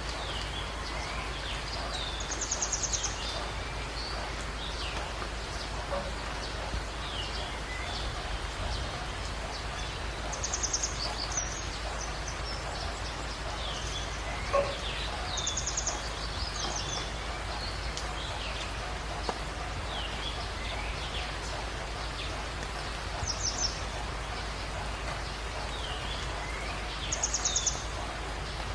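Jungle dawn chorus over steady rain: one bird repeats a short, very high rapid trill about every four to five seconds, five times in all, while other birds give short falling whistles. A single sharp drip or click sounds about halfway through.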